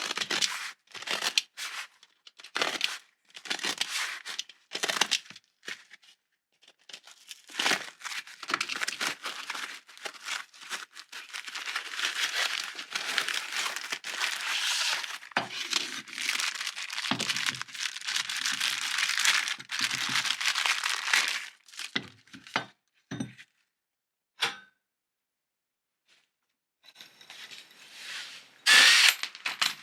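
Workshop handling noises: a run of short tearing and scraping sounds, then about ten seconds of continuous rasping, with a few knocks. The sound cuts to dead silence for a few seconds near the end before more scraping.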